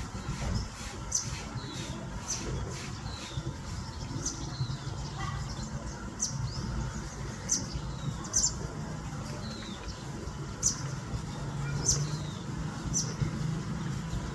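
Small birds chirping: short, sharp, high chirps at irregular intervals of about a second, with a few brief falling notes among them, over a low background rumble.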